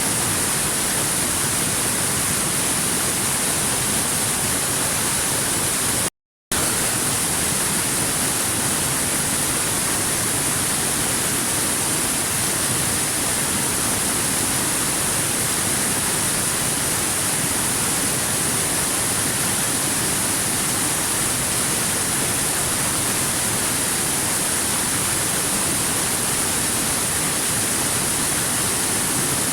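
Waterfall: a steady, even rush of falling water with no other sounds. It cuts out to silence for a split second about six seconds in.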